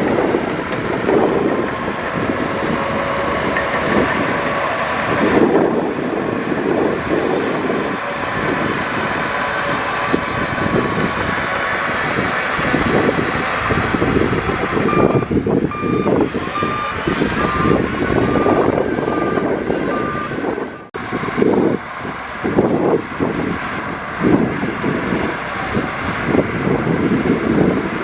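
Heavy diesel earthmoving machinery runs continuously with loud, rumbling engine noise. Partway through, a reversing alarm beeps steadily at a single pitch, about one and a half beeps a second, for several seconds. Near three-quarters of the way through, the sound briefly drops out and then resumes.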